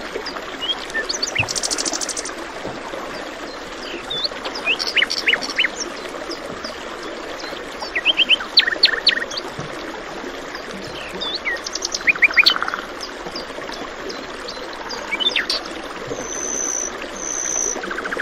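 Several small birds chirping and calling in short bursts of quick notes and sharp downward sweeps, over the steady rush of a flowing stream.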